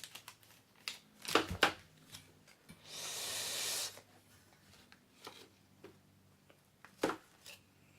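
Mystery pin box packaging being handled and unwrapped: scattered taps and clicks of cardboard and paper, with a rustle lasting about a second around three seconds in.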